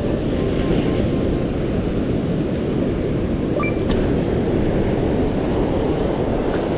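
Heavy surf and strong wind buffeting the microphone on a beach in rough post-typhoon weather: a loud, steady, deep rumbling noise with no distinct events.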